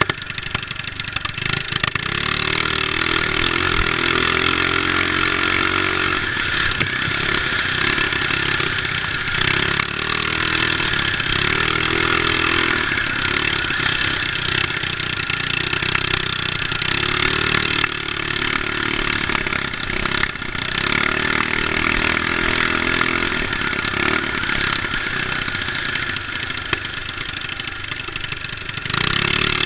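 Small mini bike engine running hard under racing, its pitch rising and falling repeatedly as it revs up and backs off.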